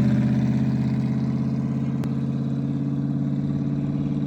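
Off-road race car engine running at a steady speed, a constant-pitched drone with a fine pulsing beat, easing slightly in level.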